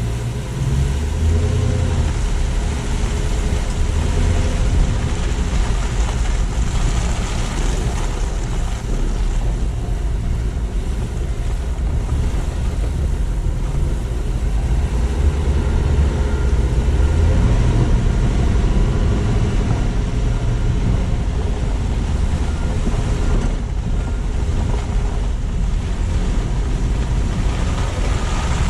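Car driving: steady low rumble of road and engine noise with a constant hiss above it, swelling slightly at times.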